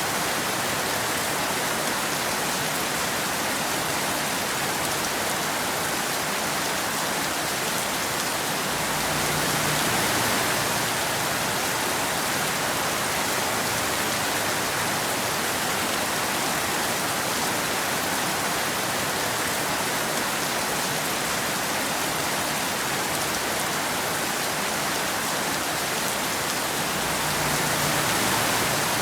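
Steady rain falling on a road, an even, unbroken hiss. It swells slightly twice, about nine seconds in and again near the end, each time with a faint low rumble.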